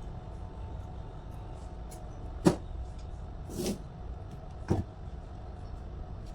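Steady low rumble with three short knocks about a second apart; the middle one is a longer scrape or swish.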